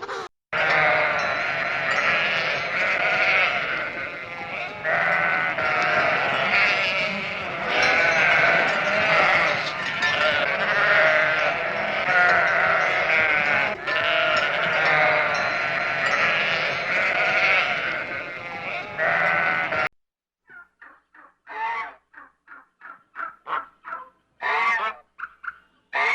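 Many animals bleating at once, with overlapping, wavering calls, like a flock of sheep or goats. It cuts off suddenly at about 20 s and gives way to a run of short, quick calls, two or three a second, with a couple of louder calls near the end.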